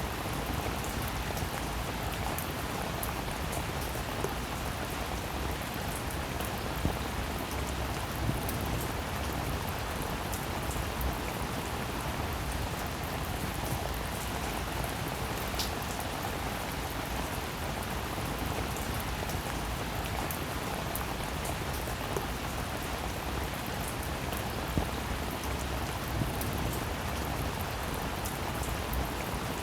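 Steady rain falling, with a few louder individual drops standing out now and then.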